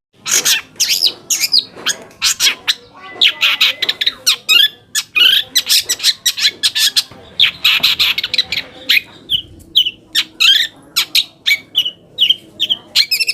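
Long-tailed shrike (cendet) singing a fast, unbroken string of harsh, scratchy notes mixed with short chirps and trills.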